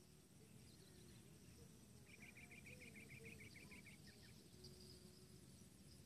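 Near silence in open grassland, broken about two seconds in by a faint, rapid series of about ten high chirps from a calling bird, lasting about two seconds.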